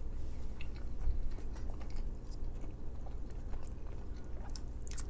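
Close-miked chewing of food, with irregular small wet mouth clicks and a sharper click near the end, over a low steady hum.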